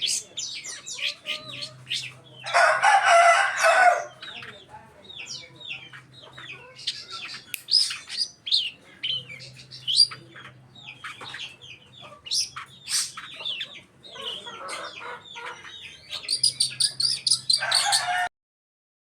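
Long-tailed shrike (cendet) singing a fast, varied string of high chirps and whistles, broken by loud harsh, scratchy calls about three seconds in and again near the end. The sound cuts off suddenly shortly before the end.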